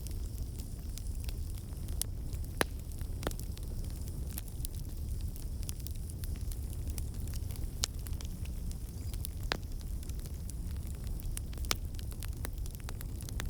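Wood fire burning in a fireplace: a steady low rumble of flames with sharp crackles and pops at irregular intervals, the loudest pop about two and a half seconds in.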